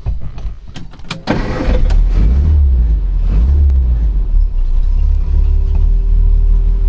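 A 1962 Morris Traveller wagon's one-litre four-cylinder engine, heard from inside the cabin, is cranked after a few clicks and catches about a second and a half in, then idles steadily with a low rumble. A faint steady whine joins it about five seconds in.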